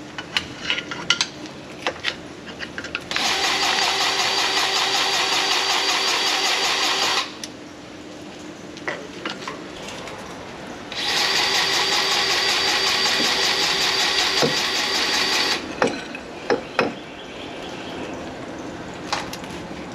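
A small electric power tool, most likely a battery-powered grease gun, running twice for about four seconds each while the planter's row cleaner fittings are greased. Light metal knocks and clicks come between the two runs.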